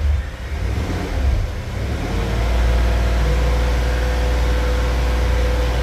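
Cadillac Escalade's 6.2-litre V8 running, brought up to a higher speed about two seconds in and then held steady, with its cylinder 8 misfire cured by a reconnected spark plug wire.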